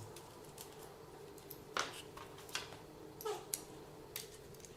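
Faint scattered clicks and a light knock over a low steady hum.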